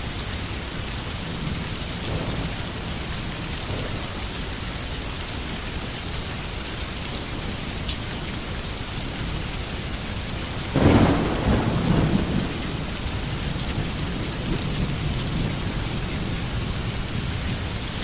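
Steady rain falling on forest trees, with a rumble of thunder about eleven seconds in that swells loud for a couple of seconds and then fades back into the rain.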